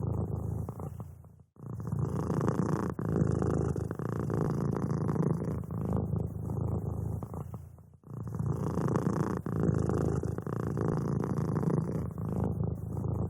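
Domestic cat purring, a low continuous rumble that breaks off briefly about a second and a half in and again near eight seconds.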